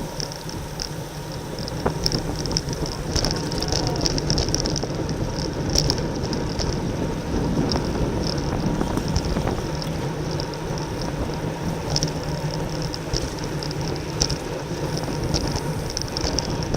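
Racing bicycle riding at speed: wind rushing over the microphone over a steady rolling tyre and drivetrain noise, with faint scattered ticks.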